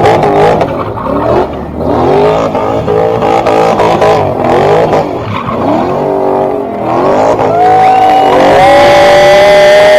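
Car engine revved hard several times in quick succession, the pitch climbing and dropping with each blip. About three-quarters of the way in it is held steady at high revs.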